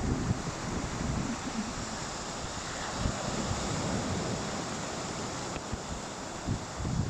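Wind buffeting the microphone in gusts over a steady rushing wash of sea surf.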